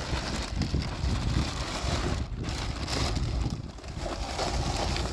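Wind buffeting the microphone in a blizzard: a steady, heavy rumble with hiss above it, swelling and easing.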